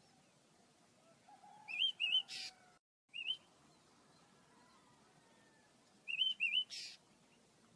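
Small caged pet birds chirping: two or three quick warbled chirps in a group, twice, each group ending in a short hissy burst.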